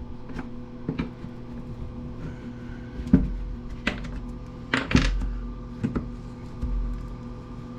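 Irregular clicks and knocks of the plastic and metal parts of a Black & Decker electric planer being handled and pried at during disassembly, the loudest about three and five seconds in, over a steady low hum.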